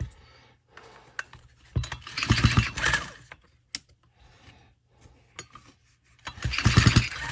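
Two pulls on a Stihl FS 45 string trimmer's recoil starter, each about a second long and a few seconds apart, spinning the engine over quickly with a rapid rattle to test the ignition for spark.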